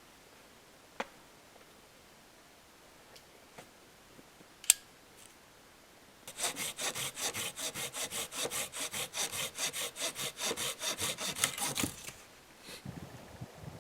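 Hand saw cutting through a dry tree branch in rapid, even strokes for about six seconds, starting about six seconds in and stopping near the end. Before it, a few faint clicks and one sharp knock a little under five seconds in.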